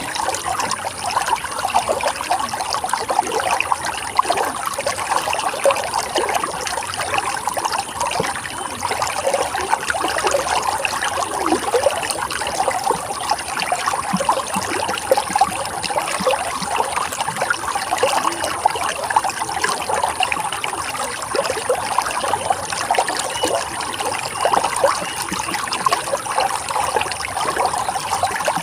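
Running stream water trickling and babbling steadily, an unbroken splashing flow without pauses.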